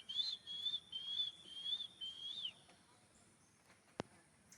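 An animal calling in a run of high whistled notes, each rising and falling, about two a second, ending on a longer note that slides down. A single sharp click comes near the end.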